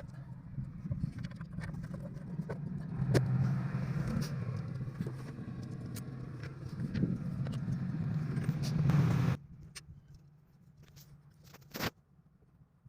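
An engine running steadily with a low hum, cutting off abruptly about nine seconds in, followed by a few light clicks and knocks.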